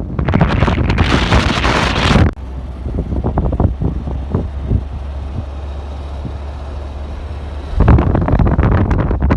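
Wind buffeting the microphone outdoors, a gusty rumble with a loud hiss that cuts off abruptly about two seconds in, a steadier low rumble, then gusts returning near the end.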